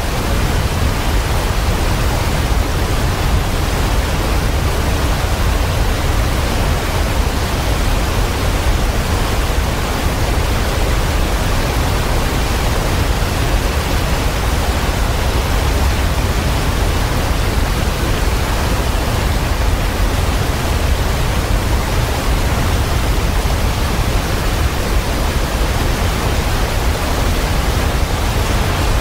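Waterfall rushing steadily, a dense even roar of water with a heavy low rumble.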